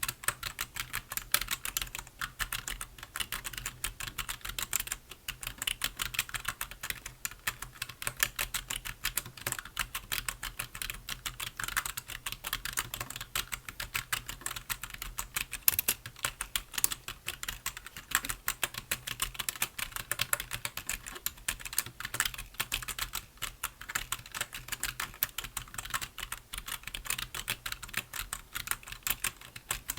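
Continuous typing on a computer keyboard: a fast, uneven run of key clicks with no pauses.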